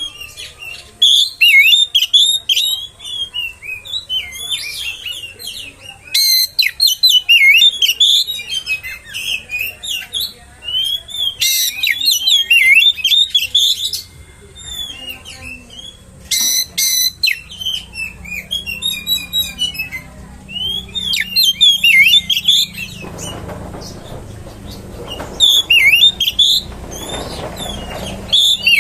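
Oriental magpie-robin singing loudly and continuously: varied, fast whistled phrases broken by rapid high chattering runs several times. A low background rumble comes in during the last few seconds.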